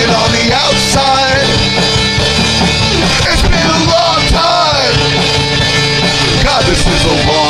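Rock band playing a loud, steady rock song, with a melodic lead line bending in pitch over the full band.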